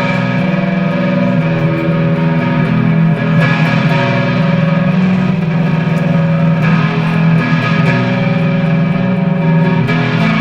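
Indie rock band playing an instrumental passage: electric guitars through effects hold ringing chords over bass, the chords changing about every three seconds.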